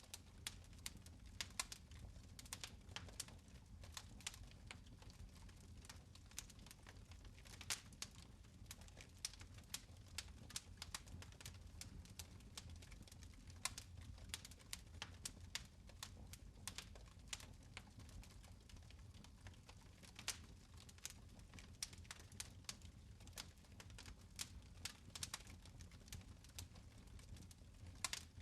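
Fire crackling in a fireplace: faint, irregular sharp pops and snaps, several a second at times, over a low steady rumble.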